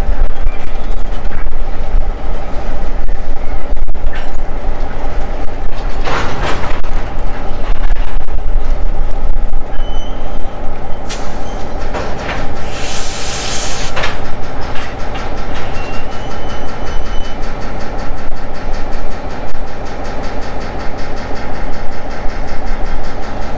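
Diesel-hauled freight train of covered hopper cars running past close by: the locomotive's engine and the steel wheels rumbling and clattering on the rails. Short bursts of hissing noise come through about a quarter of the way in and again around the middle.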